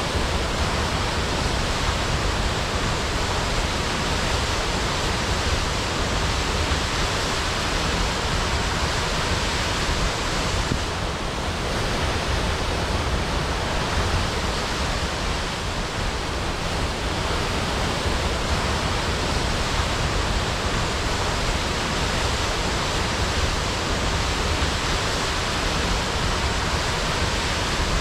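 Waterfall: a continuous, steady rush of falling water.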